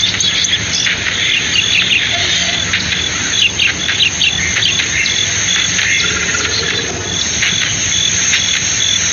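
Forest ambience: insects chirping steadily in an even, rapid high-pitched pulse, with short bird calls scattered over it, most of them about halfway through.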